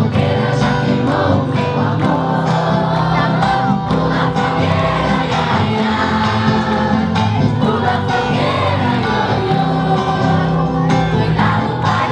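A large group of voices singing a festa junina folk song together in unison, a choir-like crowd sound with long held notes.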